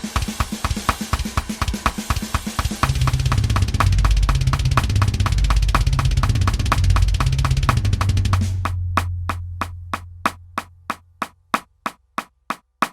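Metal drum kit playing a fast bass drum and snare beat, then heavy sustained low notes that fade away over several seconds. A steady click, about three a second, carries on alone near the end.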